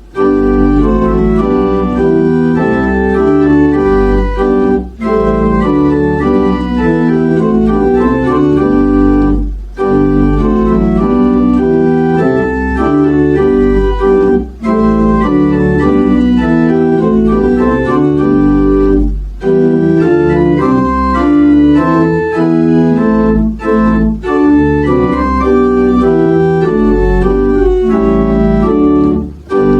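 Organ playing held chords in phrases of about four to five seconds, each phrase ending in a short break before the next.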